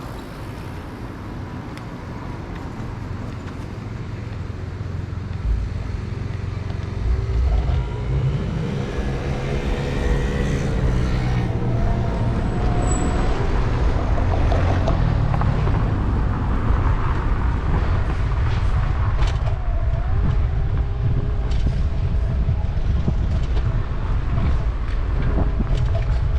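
City street traffic heard from a moving bicycle, under a low rumble that grows louder over the first several seconds and then holds steady. A passing motor vehicle adds a pitched hum near the middle.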